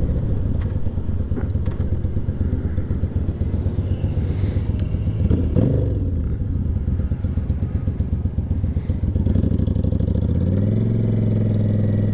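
Yamaha V-Star 1100's air-cooled V-twin engine running under way. Near the end the revs climb steadily as the bike accelerates.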